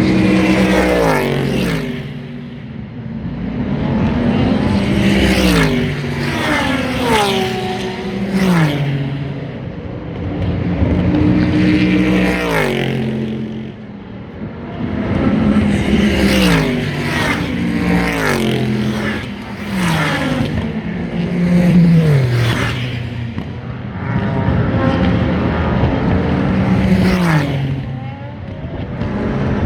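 Super GT race cars passing close by one after another, several passes in a row, each engine note swelling and then falling in pitch as the car goes by.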